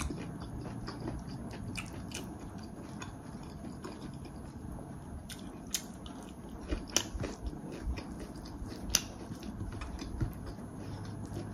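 A person chewing food, with wet mouth sounds and scattered small sharp clicks.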